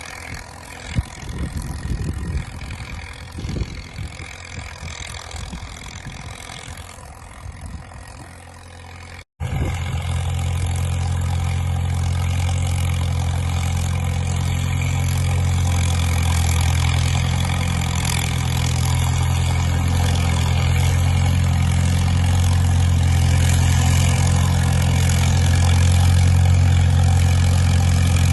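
Heavy engine running. For the first nine seconds it is uneven with a few knocks. After a momentary cut-out it settles into a steady low drone that grows slightly louder.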